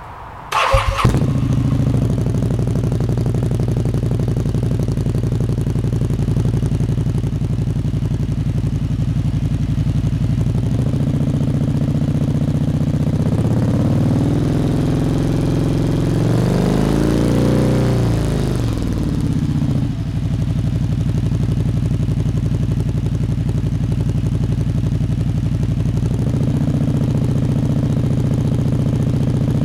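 Motorcycle engine with a GPR aftermarket exhaust cranked and started about half a second in, then idling. Near the middle the engine is slowly revved up and let fall back to idle, and the idle speed shifts a little a few times.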